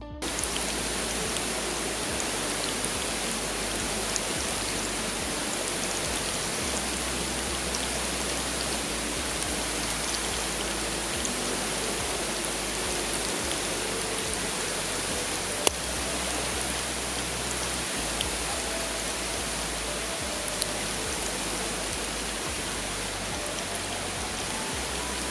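Steady rush of running water. A sharp click comes about two-thirds of the way through, with a few fainter ones now and then.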